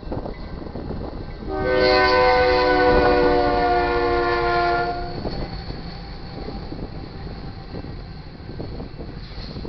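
Freight locomotive's multi-chime air horn sounding one long blast of about three seconds, several steady tones together, over the continuous rumble of the train's wheels on the rails. The lead unit is a GE Dash 9-44CW.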